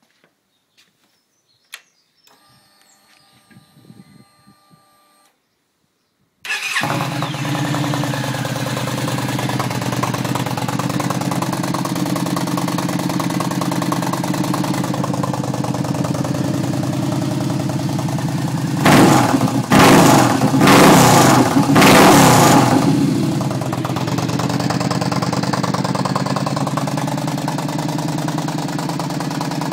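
Yamaha XVS950 V-twin through a Raask aftermarket exhaust, starting up about six seconds in after a few quiet seconds with faint clicks, then idling steadily. It is revved three times in quick succession about twenty seconds in, then drops back to idle.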